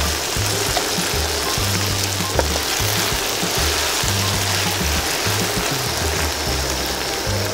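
Quail pieces deep-frying in a wok of hot oil, a steady sizzling hiss, heard under background music with a stepping bass line.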